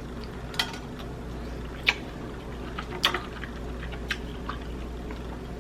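Close-miked eating of king crab legs: a few sharp clicks and smacks spaced about a second apart, over a steady low hum.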